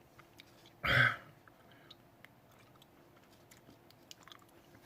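A man chewing Chocolate Jigsaw superhot chili pepper, with small wet mouth clicks. About a second in there is one short, loud voiced grunt or exhale.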